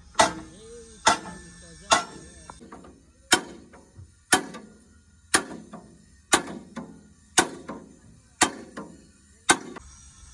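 Hammer striking metal in slow, regular blows, about one a second, each with a short ring.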